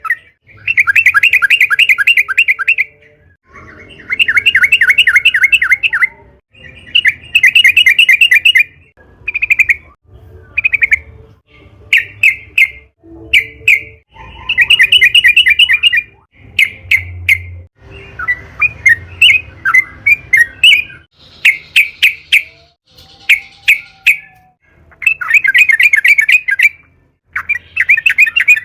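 Yellow-vented bulbul (trucukan) singing energetically: bursts of rapid chattering trills about two seconds long, repeated every few seconds and broken up by short single call notes.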